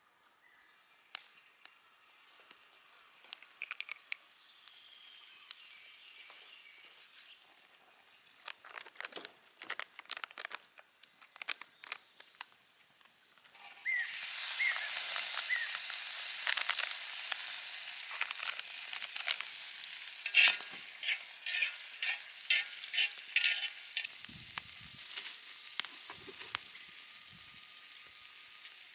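Food sizzling in a hot pan, starting suddenly about halfway through as a loud hiss full of crackles and pops; before that only faint scattered crackles.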